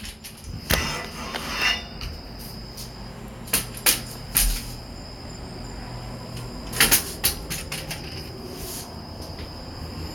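A handful of knocks and clattering handling noises at irregular intervals, like a cupboard, door or window being moved, over a faint steady low hum and a thin high whine.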